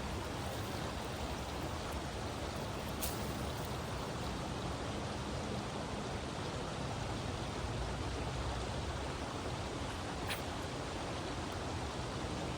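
Steady rushing noise with two brief sharp clicks, one about three seconds in and one about ten seconds in.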